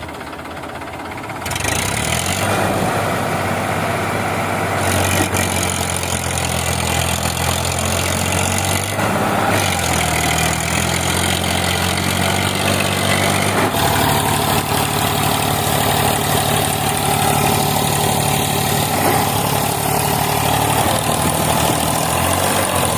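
Diesel tractor engine running steadily. It gets louder about two seconds in and its note changes about fourteen seconds in.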